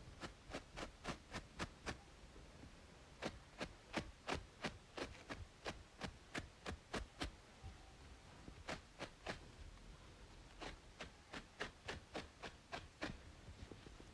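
Quick, crisp scratching strokes on a braided scalp, about three or four a second, in runs broken by short pauses, over a faint steady white-noise hiss.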